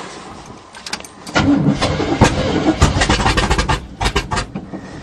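A 1977 GMC's 400 small-block V8 is cranked by the starter on a carburetor primed by hand with poured-in gas. It sputters unevenly for about three seconds, starting about a second in, but does not keep running, because the fuel system has gone dry from sitting.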